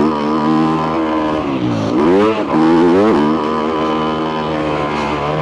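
2022 Yamaha YZ250F's single-cylinder four-stroke engine running hard through a full FMF exhaust as the dirt bike is ridden. The revs drop and climb back twice, around two and three seconds in, and hold fairly steady otherwise.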